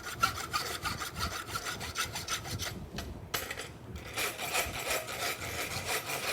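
A farrier's rasp filing the edges of a forged steel horseshoe in quick repeated scraping strokes, pausing briefly about three seconds in and again about a second later.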